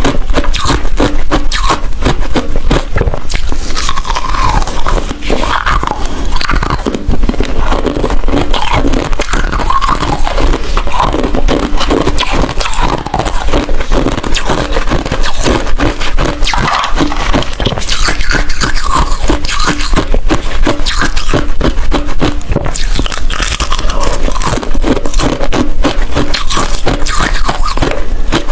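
Hard ice being bitten and chewed close to the microphone: a continuous run of loud, rapid crunching and cracking.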